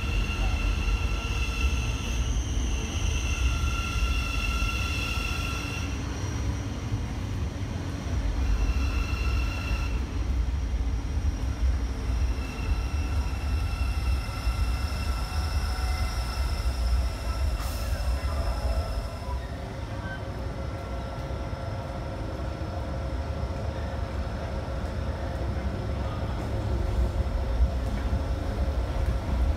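Passenger trains moving through a station: a steady low rumble of wheels on track under high steady whines from an electric multiple unit's traction equipment, which break off and return several times in the first ten seconds. In the second half a lower steady hum sits over the rumble.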